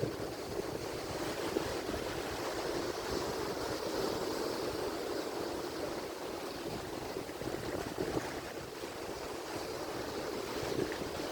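Ocean surf: waves breaking and washing in as a continuous rushing noise that swells and eases slightly, with no single sharp crash.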